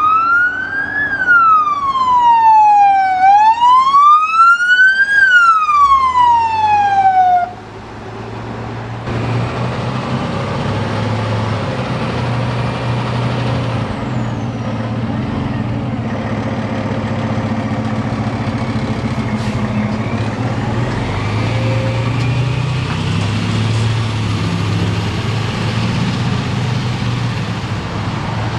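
Emergency vehicle siren in a slow wail, rising and falling about every four seconds, cutting off abruptly about seven seconds in. After that, a steady low engine rumble of a heavy vehicle with road noise.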